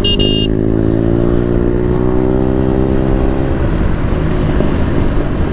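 Motorcycle engine running at low revs, its pitch rising gently for a few seconds and then holding steady. A brief high beep sounds right at the start.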